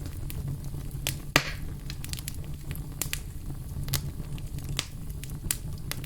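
Wood fire crackling, with irregular sharp pops over a low steady rumble of the flames; one louder pop about a second and a half in.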